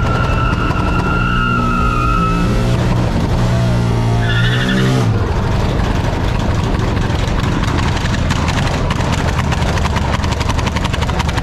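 A car engine revving hard, its pitch climbing for a few seconds and then cutting off abruptly about five seconds in. Dense, loud vehicle noise runs throughout, with a steady high-pitched tone during the first couple of seconds.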